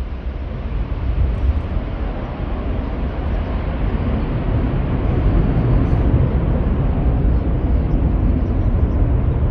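Jet aircraft engine noise at takeoff: a loud rumble, heaviest in the low end, that grows louder over the first few seconds and then holds steady.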